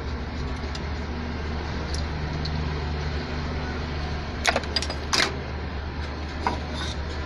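An engine running with a steady low drone, with several sharp metallic clinks of hand tools on metal a little past halfway.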